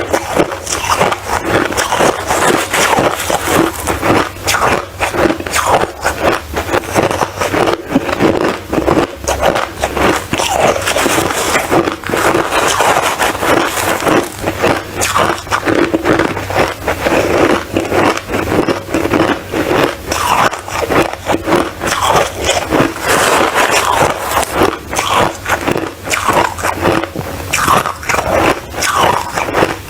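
Close-up crunching and scraping, a dense, unbroken run of crackly clicks.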